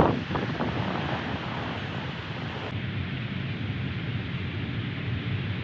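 Jet airliner engines rumbling as a landing plane passes and moves away, a steady noisy roar with wind on the microphone.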